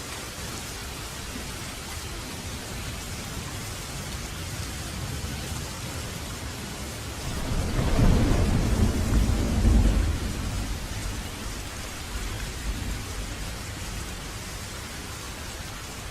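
Steady rain with a roll of thunder about halfway through: a deep rumble that swells, peaks twice and fades back into the rain.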